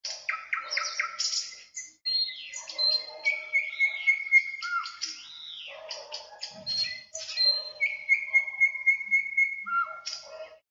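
Several songbirds singing over one another: clear whistled notes that arch up and down, long level whistles, and quick chirps, with a lower warbling call underneath.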